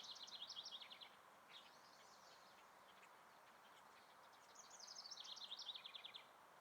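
A songbird singing twice, each song a fast trill of rapidly repeated notes that steps down in pitch, the second coming about four seconds after the first, over faint steady background noise.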